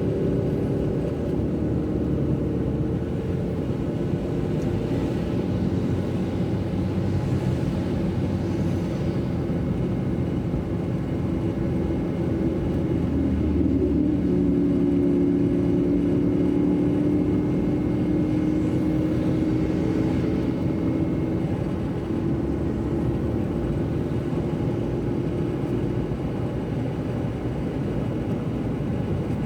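Car driving on wet roads: a steady rumble of engine and tyres, with a humming engine tone that grows stronger and edges up in pitch from about the middle before fading back.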